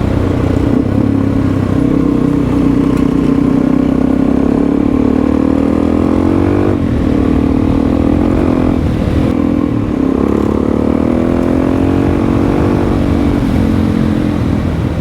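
Suzuki DR-Z400E single-cylinder four-stroke dirt bike engine running under load while riding, its pitch climbing as it accelerates. The pitch falls off about seven seconds in and again around nine to ten seconds in, then climbs again each time.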